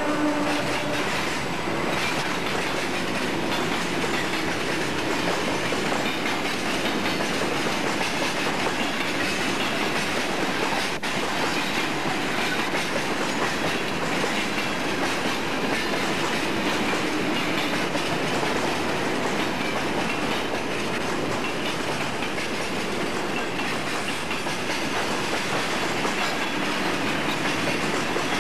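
Freight train wagons rolling steadily past, grain hoppers and then box vans, their steel wheels running on the rails with a continuous rumble and clatter.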